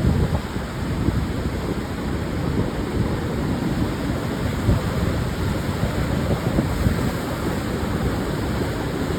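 Ocean surf breaking and washing on a sandy beach, a steady rushing noise, with wind buffeting the microphone.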